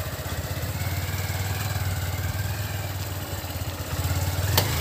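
Small motorcycle engine running at low revs, a steady fast low putter. A sharp click near the end.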